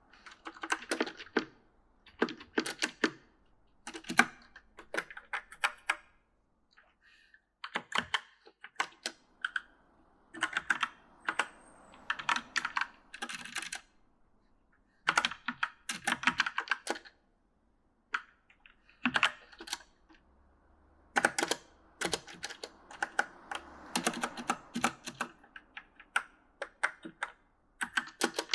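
Typing on an E-Element mechanical gaming keyboard: bursts of quick key clacks with short pauses between them, in an uneven, halting rhythm.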